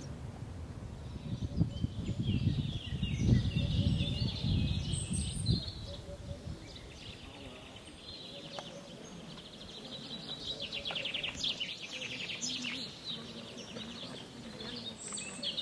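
Birds chirping and trilling, with fast trilled phrases in the second half. A loud, irregular low rumble runs under them for a few seconds near the start.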